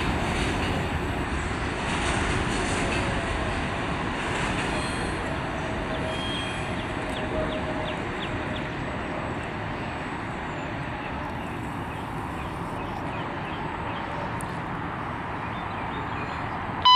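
Freight train cars rolling on steel rails: a steady rumble of wheels and cars that slowly fades as the rear of the train moves away, with a faint wheel squeal about six to eight seconds in.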